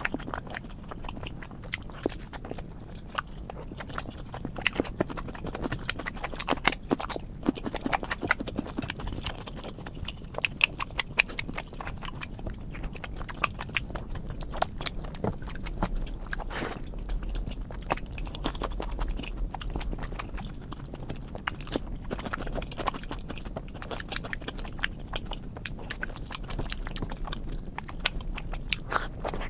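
Close-miked chewing and mouth sounds of a person eating, with many irregular wet clicks and smacks.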